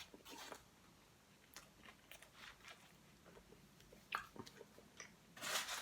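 A person chewing food close to the microphone: faint, scattered wet clicks and small crunches, with a brief louder rustling burst near the end.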